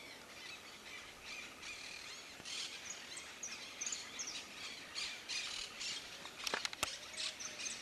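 Small birds chirping outdoors with many short, high calls, and a few sharp clicks near the end.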